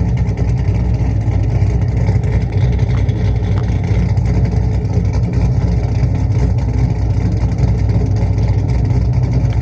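Cammed 2002 Chevrolet Camaro SS's LS1 V8 running at a steady, rumbling idle, heard from the exhaust at the rear of the car.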